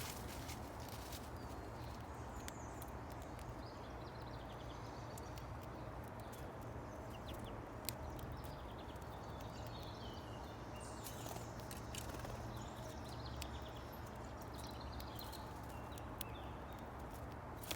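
Faint, scattered bird chirps over a steady outdoor background rumble, with a few light clicks.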